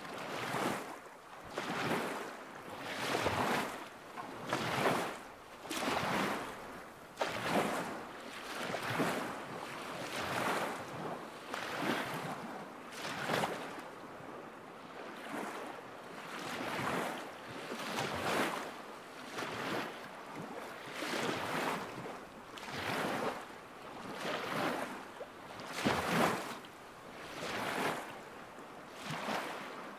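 Small lake waves lapping at the shore in an even rhythm, one soft wash about every one and a half seconds.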